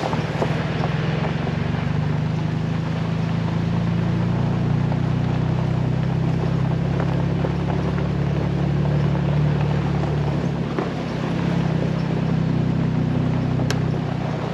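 Jeep Wrangler engine running steadily as it drives along a gravel road, with a constant low hum, road noise and scattered small knocks from the rough surface.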